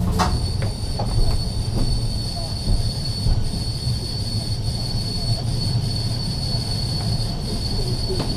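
Ex-Liverpool Corporation tram 869 running on rails, its wheels giving a steady high-pitched squeal over a low running rumble. There are a few clicks in the first couple of seconds and a sharp knock at the very end.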